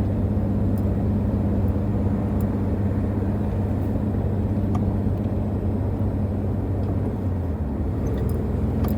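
Steady engine and road hum heard from inside a moving car's cabin. The low hum eases slightly near the end.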